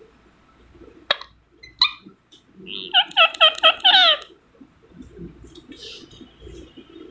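Indian ringneck parrot calling: a couple of short sharp squawks, then a quick run of about six loud repeated calls, each dropping in pitch.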